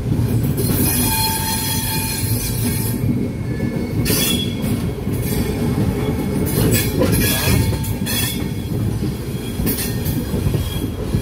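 Passenger train running through a yard, heard from on board: a steady low rumble of wheels on rail, with brief high metallic wheel squeals coming and going a few times.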